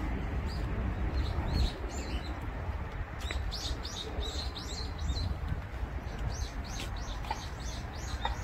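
Small birds chirping: a run of short, high chirps repeating several times a second, over a steady low background rumble.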